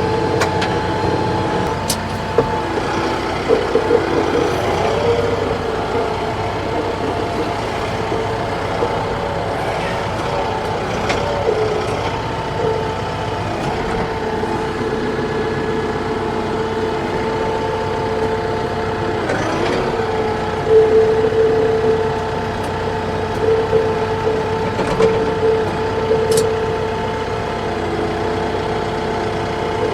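TYM T654 tractor's diesel engine running steadily under work, with a steady whine and a few brief knocks.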